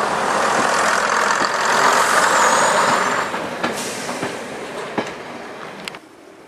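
A first-generation diesel multiple unit running past at close range: a steady rush of wheel and engine noise that is loudest about two seconds in, then fades, with a few sharp clicks. It cuts off abruptly about six seconds in.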